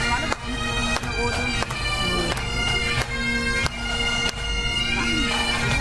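Pipe band playing: bagpipes sounding a tune over their steady drones, with a regular beat about every two-thirds of a second.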